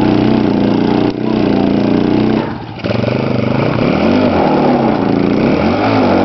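An engine running loudly, with a short drop in level about two and a half seconds in, then its pitch rising and falling as it is revved.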